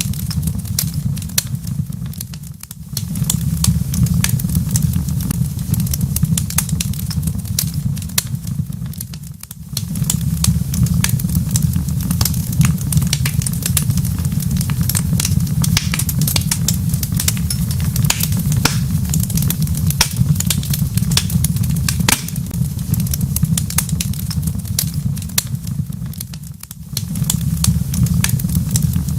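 Wood fire crackling in a fireplace: a dense, constant scatter of sharp pops and snaps over a steady low rumble. The sound briefly dips three times.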